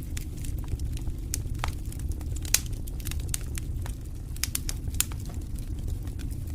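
Wood campfire crackling, with irregular sharp pops and snaps, the loudest about two and a half seconds in and again about five seconds in, over a steady low rumble.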